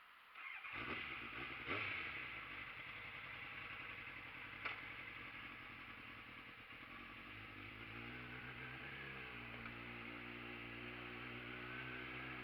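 Motorcycle engine starting up about half a second in and running, with a sharp click near the middle; in the last third the engine note rises and then holds.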